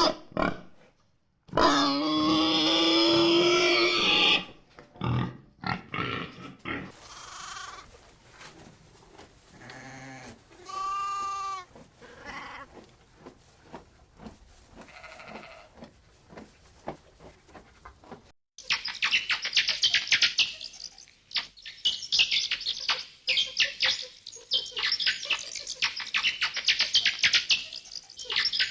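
Farm animals calling in a run of short clips: a loud, held, pitched call early on, a quieter stretch of scattered short calls, then, from about two-thirds of the way through, a dense run of rapid noisy calls.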